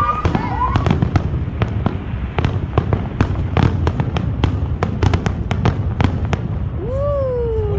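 Fireworks going off in a display: many sharp bangs and cracks in quick, uneven succession over a continuous low rumble. A long falling tone sounds near the end.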